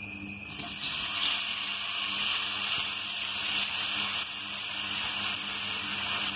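Chopped ripe plantain pieces frying in hot ghee in a pan: a steady sizzling hiss that starts about half a second in.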